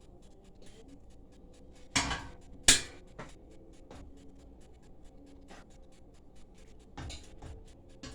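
Kitchen handling sounds at the stove: two loud scraping clatters about two seconds in and a softer one near the end, over a fast, steady ticking.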